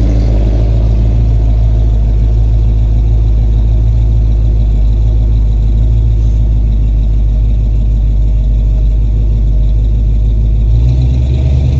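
A 1978 truck's engine and loud exhaust running steadily as the truck is driven, a deep continuous drone; the engine note changes near the end.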